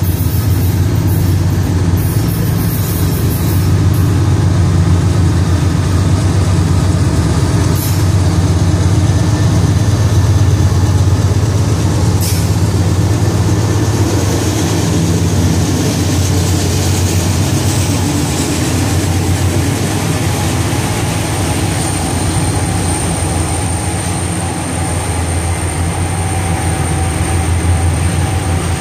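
A CSX diesel freight train passes close by: the locomotives give a steady low engine drone, then covered hopper cars roll over the rails with a few sharp clicks. A thin high wheel squeal comes in about two-thirds of the way through.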